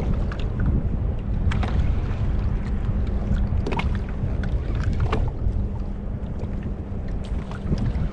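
Wind buffeting the microphone on a kayak at sea, over water lapping at the hull, with scattered small knocks and splashes.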